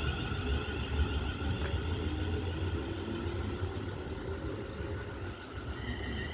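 Electric train running: a low rumble with a steady two-note electric whine, which steps up in pitch near the end, as the sound slowly fades.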